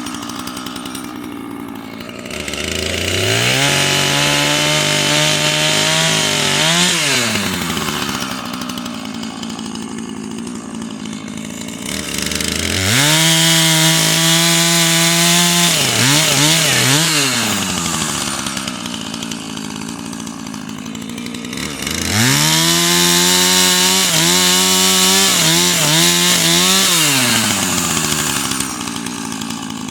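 Husqvarna two-stroke chainsaw revved to full throttle three times, held at a steady high pitch for several seconds each while cutting wood into firewood lengths. Each run ends in a few quick throttle blips, and the saw drops back to idle in between.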